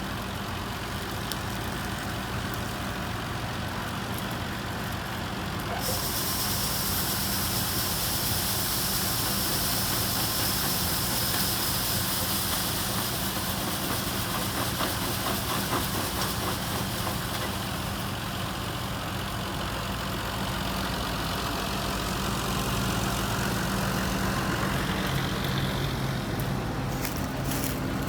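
A heavy engine of farm machinery running steadily. A loud, high rushing hiss joins in suddenly about six seconds in and keeps going.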